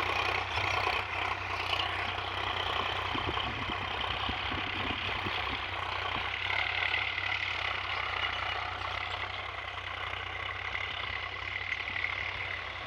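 Sonalika tractor's diesel engine running steadily at low revs.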